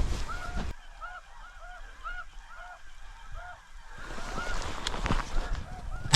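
A chorus of snow geese calling in short, repeated high yelps that overlap one another, with wind on the microphone. A single sharp gunshot cracks at the very end.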